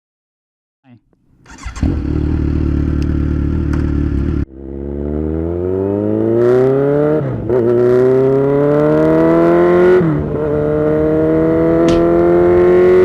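Honda CBR300R single-cylinder engine, recorded close to the exhaust pipe. It first runs at a steady note, then after an abrupt cut it accelerates hard, the pitch climbing in each gear with two quick dips at the upshifts.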